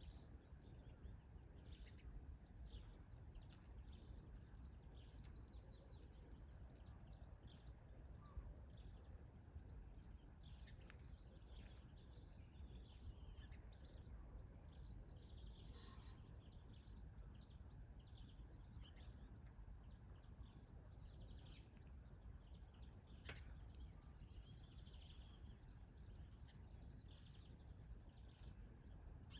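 Faint, quiet outdoor ambience: small birds singing in short scattered chirps over a steady low background rumble.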